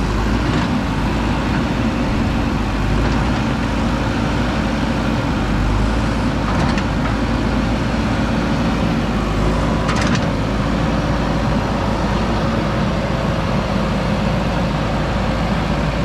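JCB 3DX backhoe loader's diesel engine running steadily, with a few sharp knocks, the clearest about ten seconds in.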